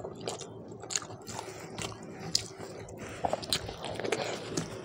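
Close-miked chewing of rice and mutton curry eaten by hand, with many short, wet smacking clicks of the mouth. About three seconds in, a fresh handful goes into the mouth and the smacks come faster and louder.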